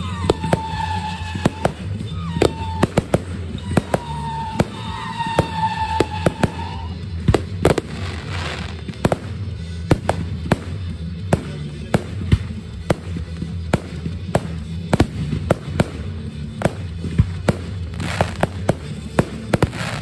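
Fireworks display: aerial shells bursting in a rapid, irregular series of sharp bangs, with a dense rush of crackling near the end. Music with a steady low beat plays underneath, with a held melody line through the first seven seconds.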